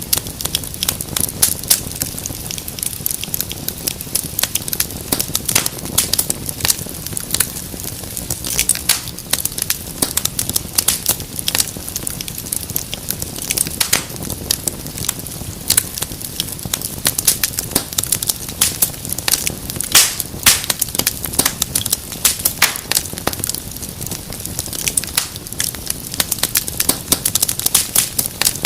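Wood fire in a fireplace crackling: dense, irregular pops and snaps over a low, steady rumble of burning.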